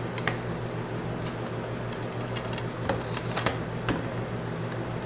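Plastic DVD cases being handled: a few sharp clicks and taps, several bunched together about three to four seconds in, over a steady low hum.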